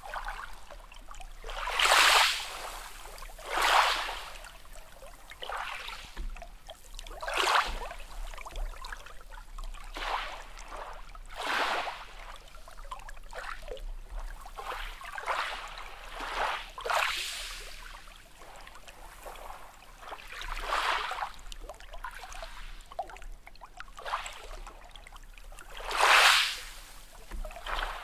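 Small sea waves washing and lapping on a shore, with a surge of water noise rising and falling every few seconds; the loudest surges come early and near the end.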